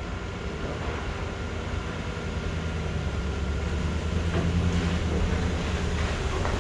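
Steady low mechanical rumble that grows gradually louder.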